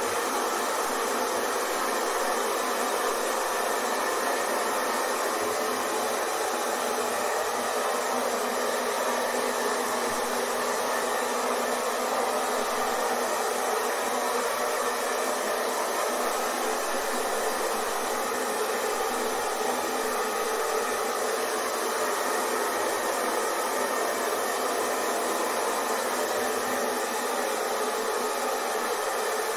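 Hair dryer running steadily, an even, unbroken whooshing hum of fan and motor.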